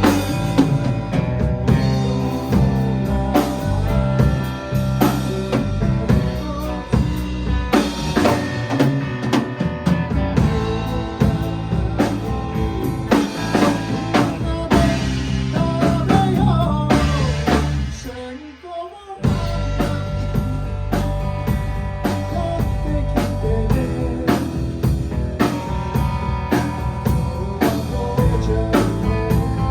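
A band playing a blues-rock number on electric guitar, bass and drum kit, with a brief break about two thirds of the way through before the full band comes back in.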